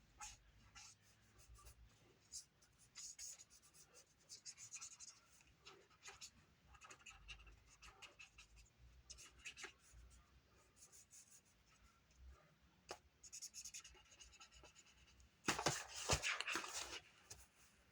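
Faint scratching of an ink pen drawing on cardstock, short strokes coming and going, with a louder stretch of scratching and rubbing near the end.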